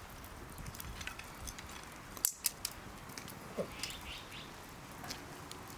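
Wood campfire crackling, with irregular sharp pops and a louder cluster of pops about two and a half seconds in.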